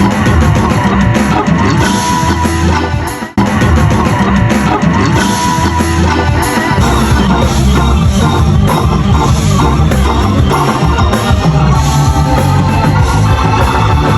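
Live rock band playing loudly, with electric guitar, bass and drums. The sound drops out briefly about three seconds in.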